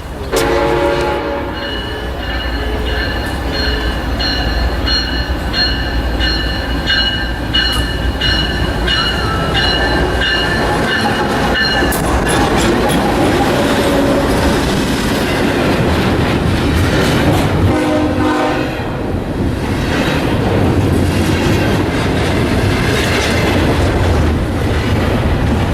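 Train passing with its horn sounding just after the start and again briefly about 18 seconds in, over the steady rumble and clatter of wheels on rail. A high, evenly repeated ringing runs for about the first twelve seconds.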